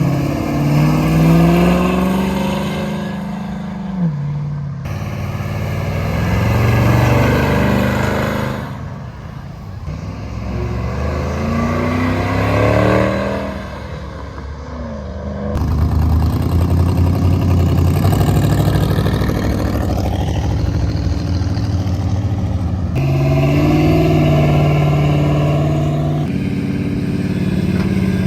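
Car engines revving hard, rising and falling in pitch, heard across several short clips with sudden cuts between them.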